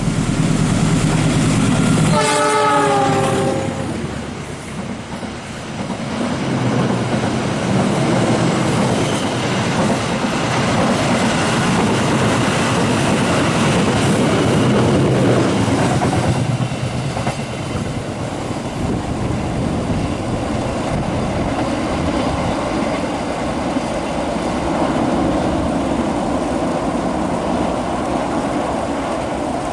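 A train passing at speed: heavy rumbling, a locomotive horn blast about two seconds in lasting around a second and a half, then the steady clatter and roar of the wagons running over the rails.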